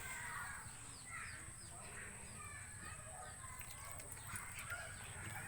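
Faint outdoor ambience with many short bird chirps and a steady high-pitched hiss.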